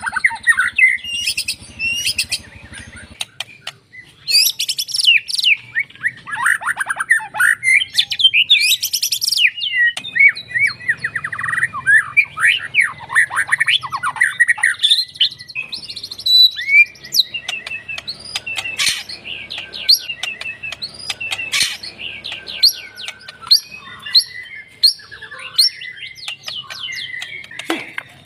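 Cage songbird song in a fast, varied stream: rapid trills and clicking runs about four and eight seconds in, a run of downward-sweeping whistles in the middle, then sharp repeated chirps about one or two a second towards the end.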